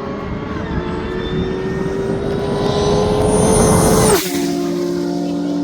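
Turbocharged car engine pulling hard at full throttle, its pitch climbing slowly with a high turbo whistle over it. About four seconds in the throttle is lifted and the engine falls to a lower, steady tone.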